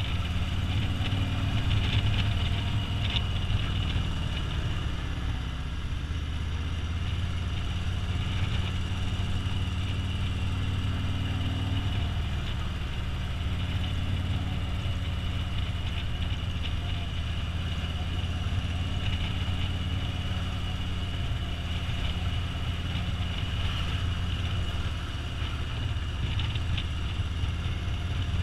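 Touring motorcycle's engine running steadily at a low road speed, heard from a camera mounted on the bike, its note changing slightly about twelve seconds in.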